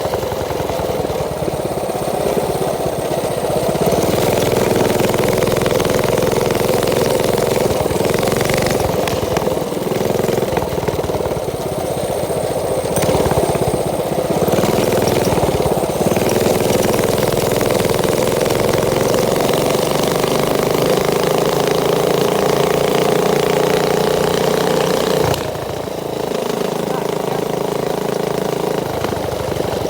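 Mini bike's small engine running, its pitch slowly rising and falling back, then dropping suddenly to a lower, quieter note about 25 seconds in.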